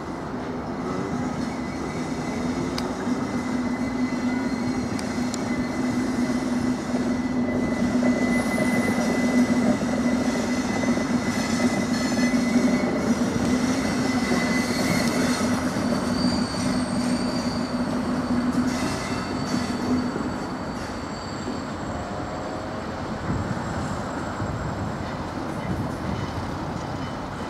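Class 60 diesel locomotive, with its eight-cylinder Mirrlees engine, hauling hopper wagons slowly past, the engine giving a steady low hum that fades out about twenty seconds in. Thin, high wheel squeal and rolling rumble from the wheels on the track run alongside.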